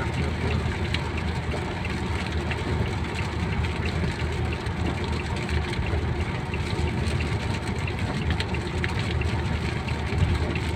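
A car running, a steady low rumble with an even hiss over it.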